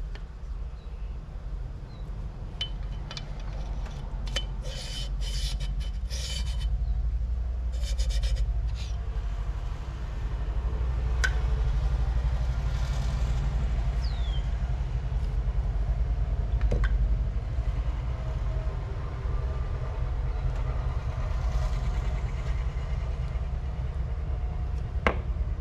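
A steady low rumble that swells slightly about ten seconds in, with quick runs of small clicks and ticks in the first nine seconds and a few single sharp ticks later.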